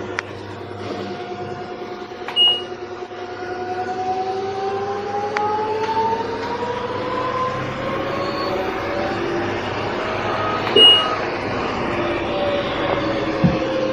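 LG front-load washing machine in its spin cycle: the drum motor's whine climbs slowly in pitch as the drum speeds up, then eases back down near the end. Two short, louder sounds stand out, one about two and a half seconds in and one about eleven seconds in.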